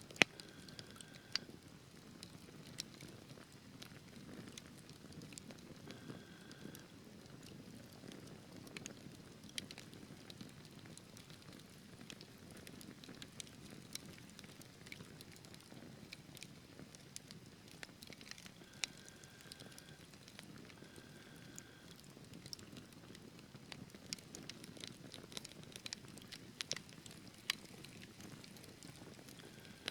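Logs burning in a fireplace: a low steady rush of flame with scattered crackles and pops, the sharpest pop right at the start.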